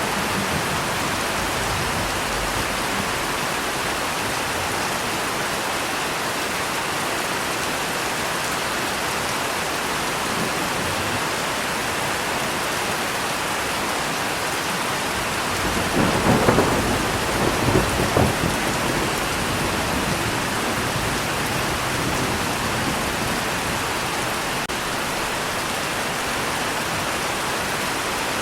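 Steady heavy rain falling, with a roll of thunder a little past the middle that rumbles for two or three seconds.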